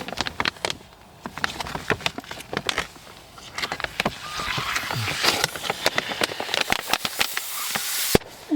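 Crinkling, crackling plastic packaging of an MRE flameless ration heater bag being handled, with many sharp clicks. A steady hiss builds from about three and a half seconds in and cuts off suddenly near the end.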